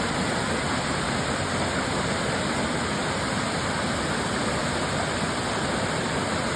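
Waterfall: falling water pouring and splashing in a steady, even rush.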